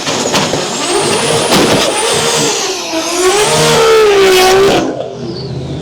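Drag racing car run hard on the strip: a loud engine at high revs with a wavering tone that rises and falls, loudest about four seconds in, then cuts off sharply near the end, leaving a quieter fading car sound.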